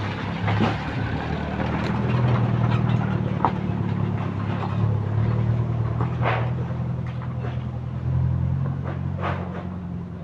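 A steady low engine hum that swells and eases, with a few short, sharper higher sounds over it.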